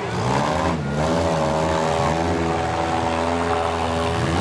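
Demolition derby cars' engines revving, their pitch rising and falling as the cars back up and charge.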